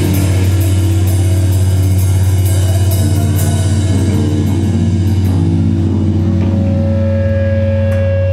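Live heavy rock band playing: distorted guitars and bass hold one low droning note, with drum cymbal crashes over the first few seconds. The cymbals drop out, and a high held note comes in about six seconds in.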